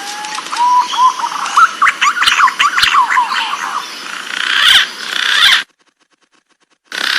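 Green pigeons (punai) calling: drawn-out gliding whistles, then a rapid run of short rising whistled notes over a hissy background, used as a lure call. The recording cuts off abruptly about five and a half seconds in, and a short burst of sound comes back near the end.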